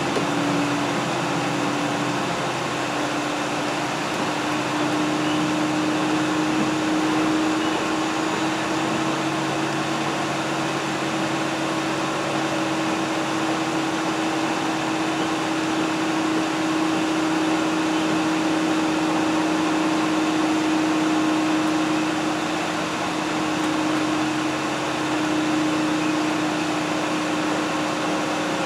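Diesel train running along the line, heard from inside the passenger car: a steady rumbling running noise with a steady whine that steps slightly higher about two seconds in.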